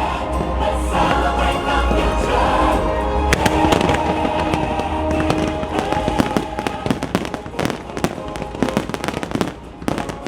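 A fireworks show: the show's music plays held chords while fireworks burst. About halfway through the music thins out and rapid cracking and popping of fireworks takes over.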